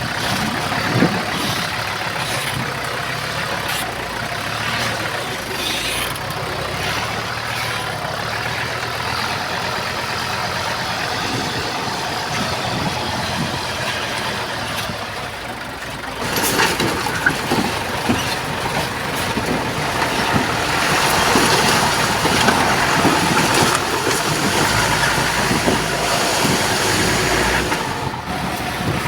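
Diesel engines of heavy earthmoving machinery, a bulldozer and dump trucks, running steadily. The sound grows louder and harsher about halfway through, then eases near the end.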